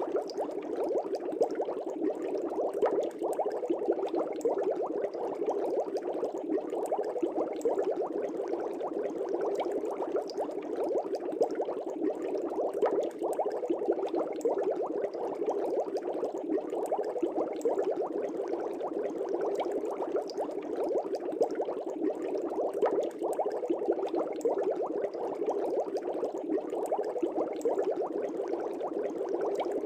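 Aquarium air bubbles bubbling through the water of a fish tank: a dense, steady bubbling made of many tiny pops, with no pause or change.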